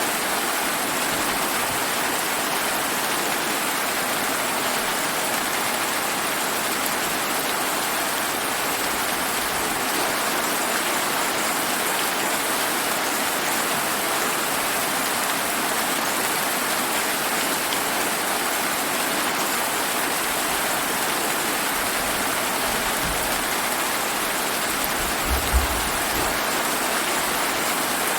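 Steady heavy rain falling, an even hiss of drops. A short low rumble and a brief low thump come a few seconds before the end.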